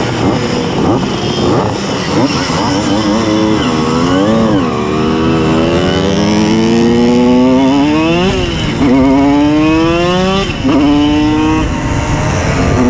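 Simson S51 moped's tuned 90 cc reed-valve two-stroke engine accelerating hard, its pitch climbing through one gear, dropping abruptly at a shift about two-thirds through, climbing again and dropping at a second shift, then holding steady. In the first few seconds other two-stroke mopeds run alongside it.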